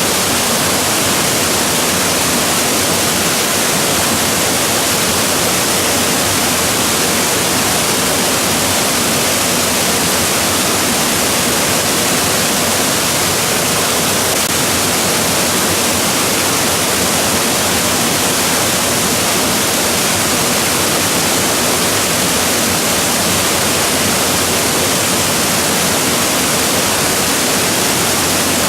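Waterfall crashing with a loud, steady rush of falling water that does not change.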